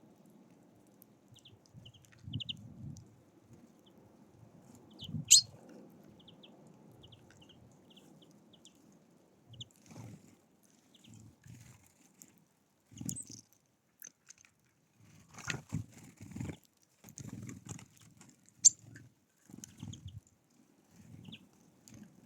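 Pigeons cooing in short, low, repeated phrases, mixed with brief high chirps of small songbirds and a couple of sharp taps.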